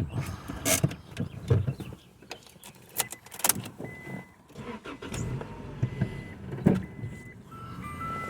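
Clicks and thumps of someone getting into a car and handling it, with the car's electronic warning chime sounding in short repeated beeps from about three seconds in.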